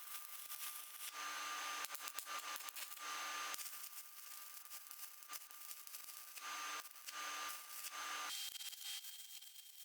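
Stick (shielded metal arc) welding with a cheap 100 V inverter welder, GZ GUOZHI MIG-125T, burning KOBELCO Zeroad 44 2.0 mm electrodes: a steady crackling hiss with a faint whine, in several runs. It cuts off suddenly near the end.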